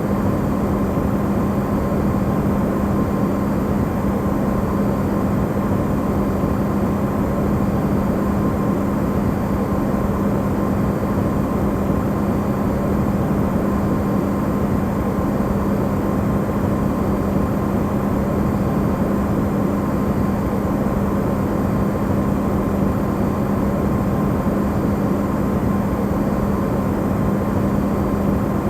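Electrolux refrigerator running, recorded amplified: a steady, unchanging hum with a strong low tone and a fainter higher tone over an even rushing noise.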